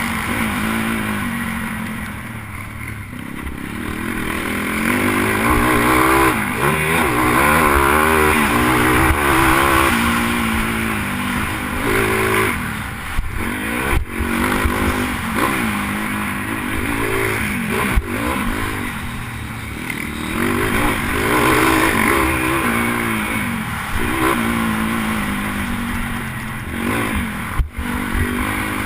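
Single-cylinder four-stroke pitbike engine racing, its pitch climbing and dropping again and again as the throttle opens and shuts, with wind rush on the helmet camera. A few sharp knocks cut through, about halfway and near the end.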